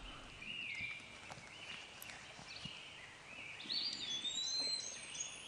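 Faint birdsong over quiet outdoor background noise: short whistled calls that glide in pitch, with a louder, higher call near the end.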